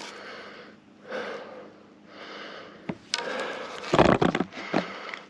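A person breathing audibly close to the microphone. About three seconds in comes louder rustling and crunching with a few sharp knocks.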